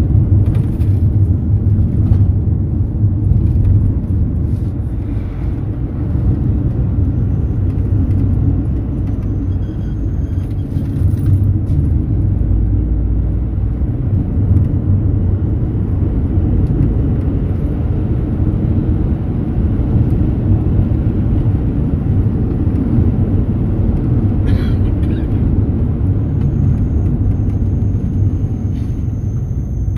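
Mercedes-Benz Sprinter minibus on the move, heard from inside the passenger cabin: a steady low engine and road rumble with a few brief rattles.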